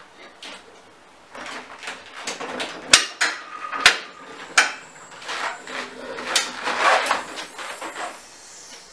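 Dishes and kitchenware handled on a counter: a busy run of clinks and knocks, the sharpest two about three and four seconds in, the first leaving a brief ringing.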